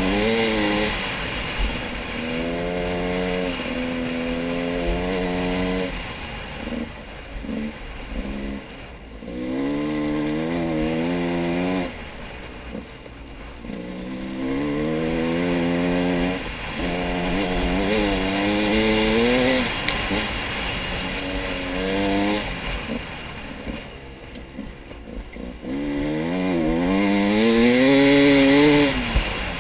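An engine revving again and again, about seven times, each rev climbing in pitch for one to three seconds before it drops back.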